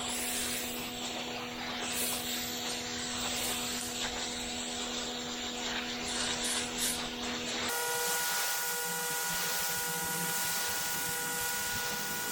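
Gas pressure washer running steadily with the water jet hissing on concrete. About eight seconds in, the sound changes abruptly to a higher, whining machine tone.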